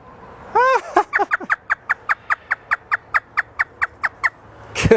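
Parrot imitating a hysterical laugh: a long run of quick, short "ha" notes, about five a second, beginning about half a second in and stopping shortly before the end.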